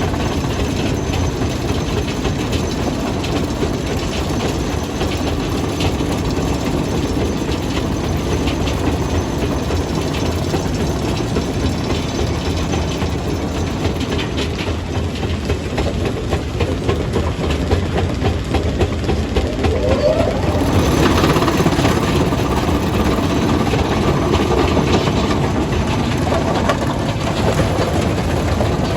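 A stone crusher, a jaw crusher, running and crushing rock, with dense continuous clattering and grinding. A short rising squeal comes about twenty seconds in, and the crushing grows louder after it.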